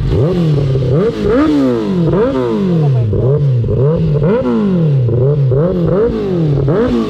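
Kawasaki ZX-10R inline-four engine free-revving on the stand: the throttle is blipped about nine times in a row, each rev rising sharply in pitch and falling back toward idle.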